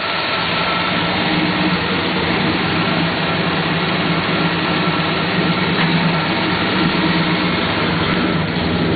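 Rebuilt Ford 429 Thunderjet V8 of a 1968 Thunderbird idling steadily.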